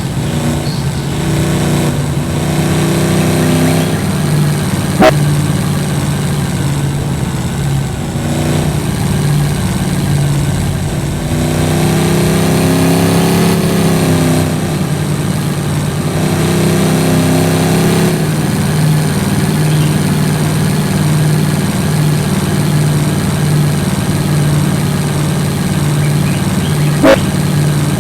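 A vehicle's engine running while driven off-road, its pitch rising and falling repeatedly as the revs change. Two sharp knocks sound over it, about five seconds in and again near the end.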